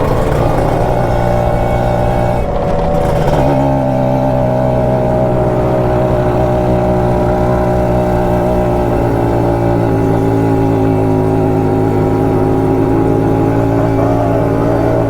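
Kawasaki Ninja RR 150's two-stroke single-cylinder engine and exhaust running while riding, the engine note holding steady apart from a brief break and shift in pitch about three seconds in.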